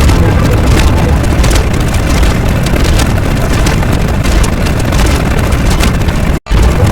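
Loud, dense rumbling noise with crackles through it, cutting out for an instant near the end.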